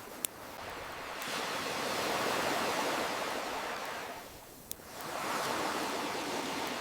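Ocean surf washing in and drawing back in slow swells, with two sharp single pops of a wood campfire, one just after the start and one about two-thirds through.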